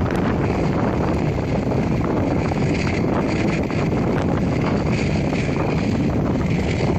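Steady rush of Boeing 757-300 jet engine noise with wind buffeting the microphone.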